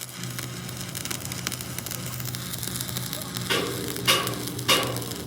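A steady low hum with a crackling hiss, then from about halfway in a run of evenly spaced ringing strikes, roughly one every 0.6 seconds, like a hammer striking metal.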